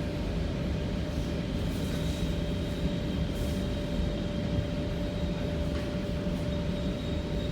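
Steady interior noise of an MTR Rotem EMU train car: a low rumble with a constant hum and a faint high whine.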